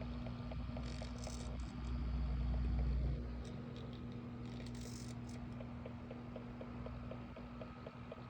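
AC Infinity Cloudray S6 oscillating fan running with a steady hum and a regular light knocking, a few knocks a second, through its oscillation, with a low grinding rumble that swells and stops about three seconds in. The owner fears a fault in the oscillation gears or motor, which were silent when new.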